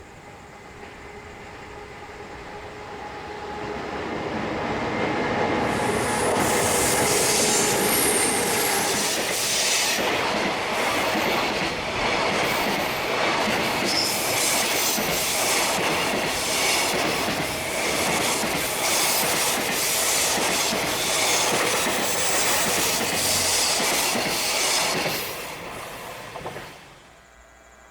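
Long JR Freight express container train passing at speed, its wheels clattering rhythmically over the rail joints with high-pitched wheel squeal. It swells in over the first few seconds, holds loud, then falls away quickly near the end.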